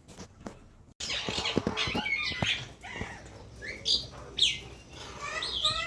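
Caged birds, mynas among them, chattering and squawking together. The sound starts abruptly about a second in, with short chirps, harsh squawks and a couple of loud rising whistled calls.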